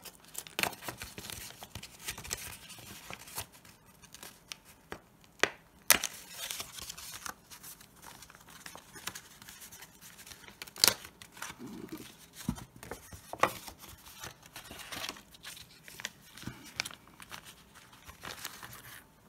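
Thin clear plastic bag being handled and opened by hand: irregular crinkling and crackling, with a few sharper snaps about 6, 11 and 13 seconds in.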